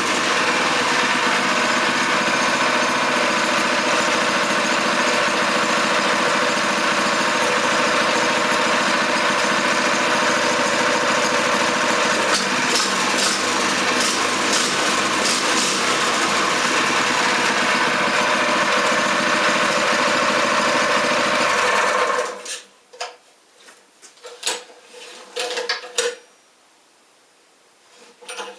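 Freshly rebuilt Kawasaki FG 200G small engine running steadily at a fast, even speed. About three-quarters of the way through it stops abruptly, leaving a few sharp knocks and clicks.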